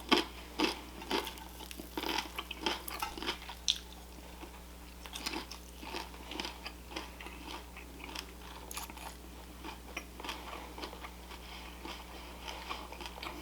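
A person chewing and biting pan-fried chicken breast: irregular crunches and mouth clicks, busiest in the first few seconds and thinning out after.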